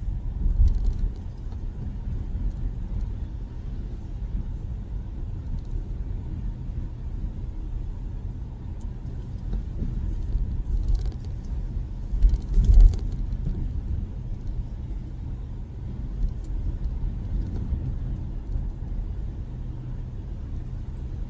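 Steady low road and tyre rumble inside the cabin of an electric Tesla Model Y driving on winter pavement, with two louder low thumps, about a second in and about 13 seconds in.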